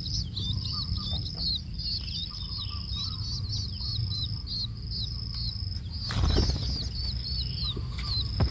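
Long-tailed shrike chicks chirping: a dense, rapid run of short high calls, with a brief rustle about six seconds in and a steady low rumble underneath.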